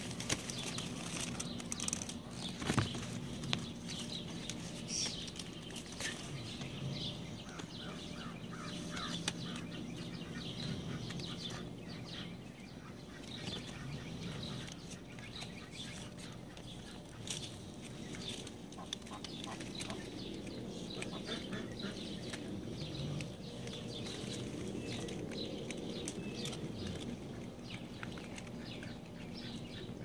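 Birds chirping in many quick, short, high calls, with a few sharp rustles or taps and a steady low hum underneath.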